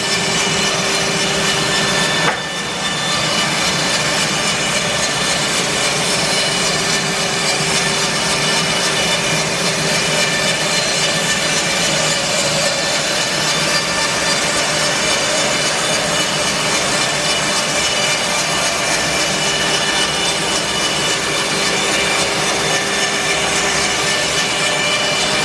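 Bandsaw mill running and sawing through an English larch log: a steady machine drone with several steady tones over the sawing noise, with a brief dip in level about two seconds in.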